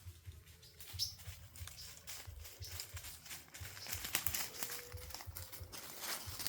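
Footsteps crunching and crackling through dry leaf litter on a forest floor, with a brief high bird chirp about a second in.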